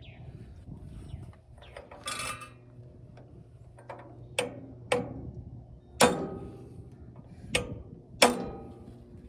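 Metal tools and starter-clutch parts being handled: a scrape about two seconds in, then five sharp metallic clanks that ring briefly, the loudest about six and eight seconds in.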